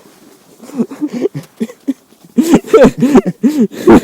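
A person laughing in a run of short, quick bursts in the second half, after a quieter first half.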